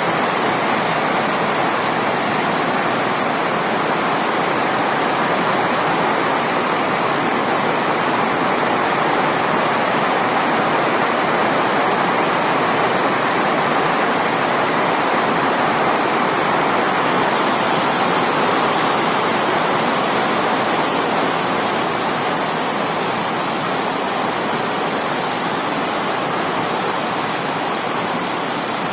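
Heavy rain pouring down steadily: a dense, even hiss with no breaks, easing very slightly in the last few seconds.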